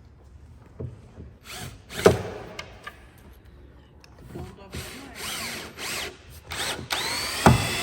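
Power drill running in short bursts, its motor pitch rising and falling, with a few knocks in between; the longest burst comes near the end.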